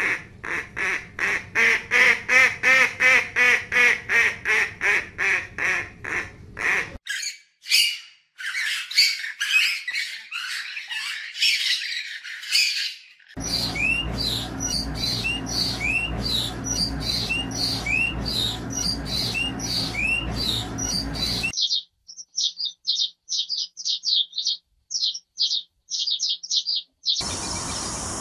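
Bird calls from several separate recordings cut one after another. A fast run of repeated squawks gives way to chirping and twittering, and ends in quick, short, high chirps.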